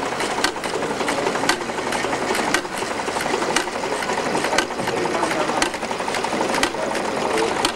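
A small engine running steadily with a fast, even clatter and a sharp click about once a second.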